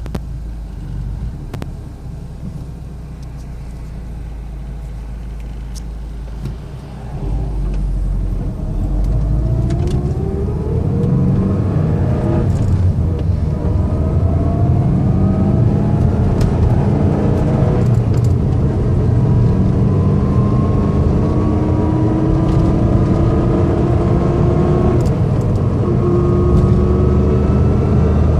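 2004 Subaru STI driving and accelerating, its engine's low rumble overlaid with a gear whine that climbs in pitch with speed and drops back between gears. The whine is there in every gear, and the owner suspects the front differential.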